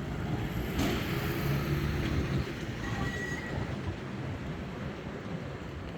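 Tram running along its rails with a steady rumble, a brief thin squeal from the wheels about three seconds in.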